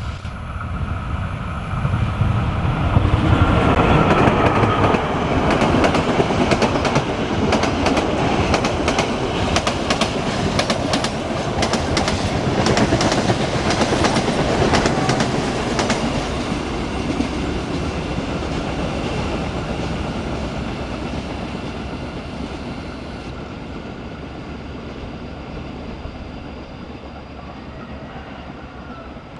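Train passing close by: a rumble builds over the first few seconds, then a rapid run of wheel clicks over the rail joints lasts about ten seconds before the train fades away.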